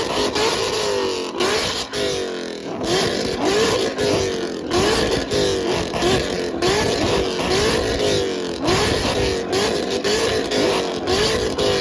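High-performance V8 engine revved again and again in quick throttle blips, each a fast rise in pitch that falls back, about one and a half a second.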